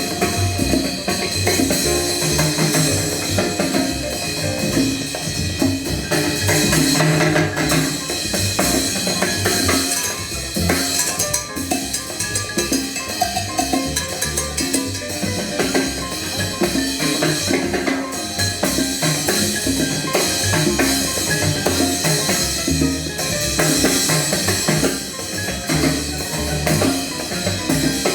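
A Latin jazz ensemble playing live, with a drum kit and percussion keeping a steady rhythm under the band.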